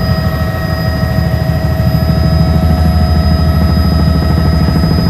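Helicopter in flight: a steady fast rotor beat over a low rumble, with a constant high whine from the engine and gearbox, growing a little louder about two seconds in.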